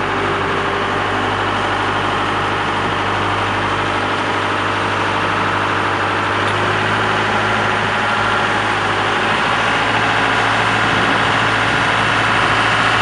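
Small fishing boat's engine running steadily, with a constant low hum under a broad mechanical din.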